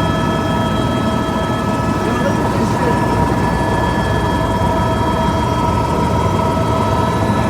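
Helicopter cabin noise in flight: the rotor and turbine running steadily, a continuous low rumble with a steady high-pitched whine over it.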